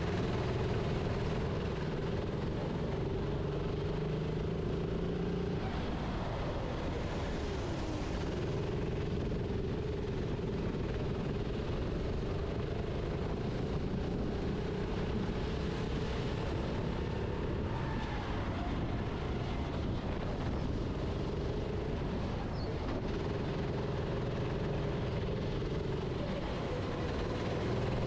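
Onboard sound of a racing kart's engine running at speed, its pitch dropping as it slows for corners about six seconds in and again past the middle, then climbing back up, over steady wind and rolling noise.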